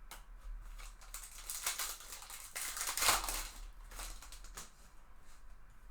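Rustling and crinkling of a foil trading-card pack and cards being handled, in a run of bursts with a few sharp clicks, loudest about halfway through.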